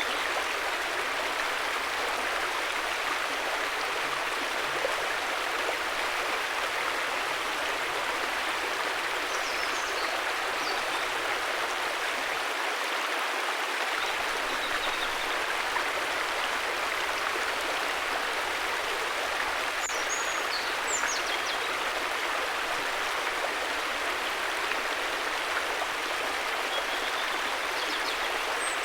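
River water flowing in a steady, even rush, with a few faint high chirps over it.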